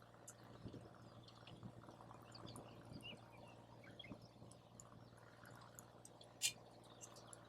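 Wood campfire crackling faintly, a scatter of small ticks and pops, with one sharper, louder pop about six and a half seconds in.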